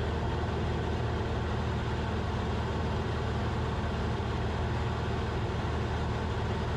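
Cessna 172RG's four-cylinder Lycoming O-360 engine and propeller droning steadily, heard inside the cabin during a steep turn.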